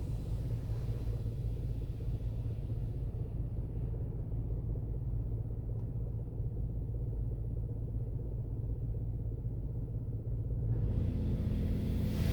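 Low, steady rumble in a WashWorld Razor Edge touchless car wash bay, with little hiss through the middle. Near the end a new low hum joins and a hiss rises.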